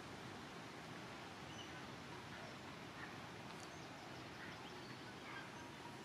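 Faint steady outdoor hiss, like wind or distant sea, with a few faint, brief bird chirps scattered through it from about a second and a half in.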